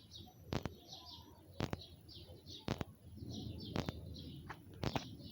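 Water dripping from above, landing as sharp, evenly spaced taps about once a second, with small birds chirping repeatedly between the drips.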